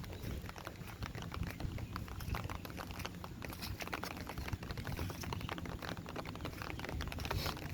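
Rain pattering as many irregular drops, with a steady low rumble underneath.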